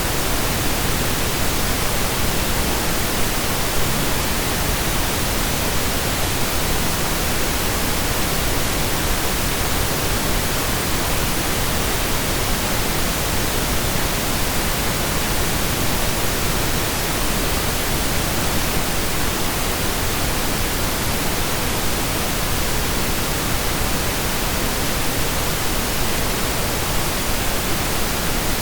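Steady synthesized pink noise, an even hiss spread evenly across the whole range, with no changes or breaks.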